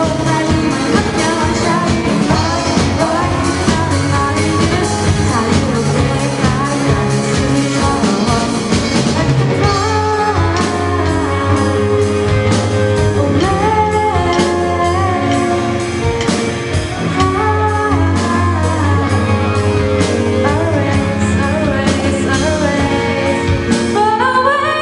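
Amateur band playing a song live, a singer's vocal over band accompaniment with a steady beat.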